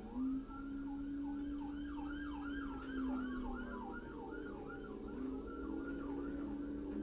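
Police car siren: a slow rising wail that switches about a second and a half in to a fast up-and-down yelp, then returns to a slow wail a little after the middle. A steady low tone runs beneath it.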